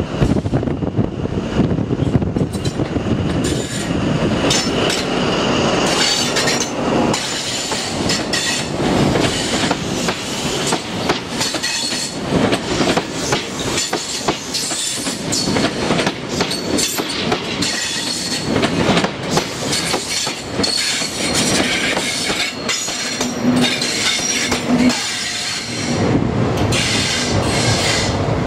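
An InterCity 125 diesel train running past at low speed, with the power car's engine and the Mark 3 coaches' wheels clacking over rail joints and pointwork, and some high wheel squeal. The engine sound swells again near the end as the rear power car passes.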